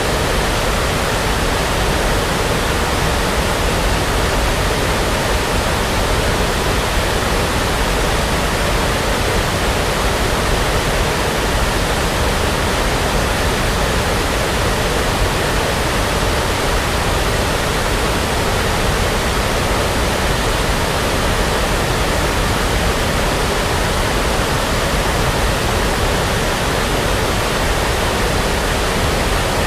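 Steady brown noise, a synthetic sleep sound: an even, unbroken hiss that does not change.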